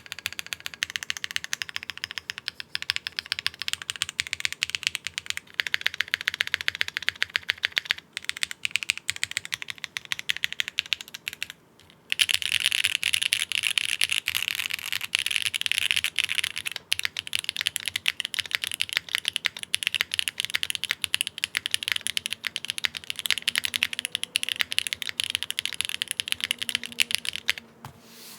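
Fast, continuous typing on a Bakeneko60 mechanical keyboard fitted with SWK Ghost Dragon switches, a polypropylene plate, no foam and the stock hotswap PCB. The keystrokes clack in dense runs, stop briefly about twelve seconds in, then resume louder.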